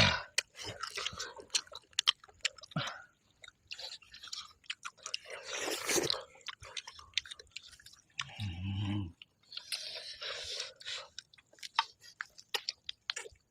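Close-up chewing and biting of cooked goat head meat: wet, crunching mouth sounds with irregular clicks. A short low hum is heard about eight and a half seconds in.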